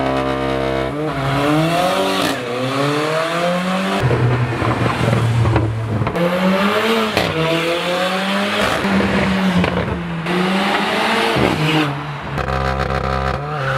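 Mercedes-AMG A45's turbocharged four-cylinder through an Armytrix valvetronic exhaust, held at steady revs on launch control, then launching and accelerating hard. The revs climb and drop back with each quick upshift, several times over. Near the end the revs hold steady again before climbing once more.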